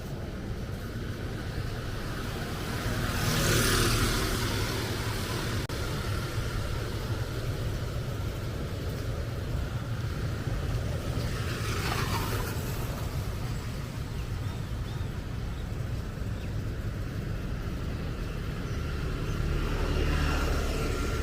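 Vehicles passing on a wet road, over a steady low traffic rumble. Tyre hiss swells and fades as each goes by: the loudest about three and a half seconds in, another around twelve seconds, and a third near the end.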